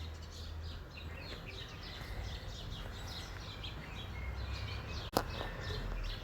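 Small birds chirping, many short high chirps overlapping with one another, over a steady low rumble on the microphone. One sharp click about five seconds in.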